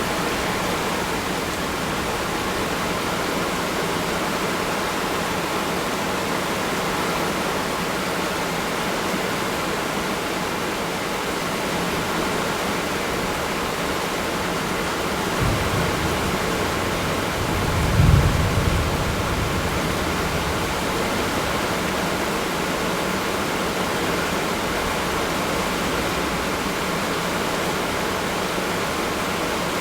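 Steady rushing noise of strong storm wind. Gusts buffet the microphone with a low rumble about 15 seconds in and again, louder, about 18 seconds in.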